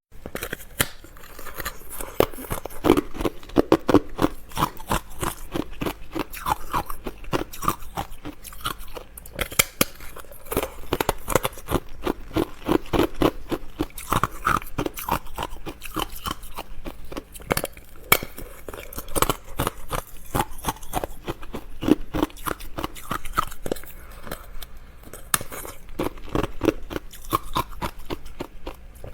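Close-up chewing of a crisp biscuit: continuous, irregular crunching bites and chews.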